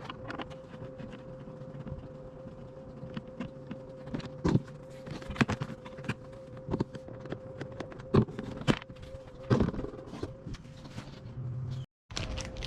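Handling noises: a series of sharp clicks and knocks, about six of them between about four and ten seconds in, over a steady hum.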